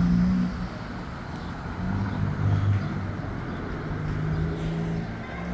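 Diesel locomotive of a commuter train running, a low drone whose pitch shifts up and down in steps. It is loudest at the start and drops back about half a second in.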